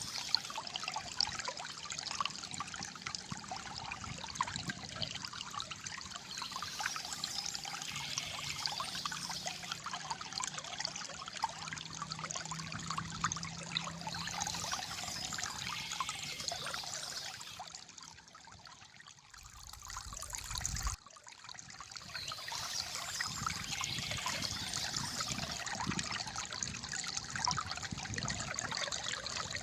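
Calm flowing water trickling and gurgling steadily. It drops quieter about two-thirds of the way in, then cuts back in abruptly at full level.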